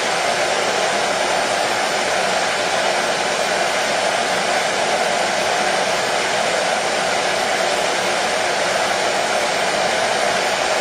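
Hair dryer running steadily: an even, unbroken blowing noise that does not change.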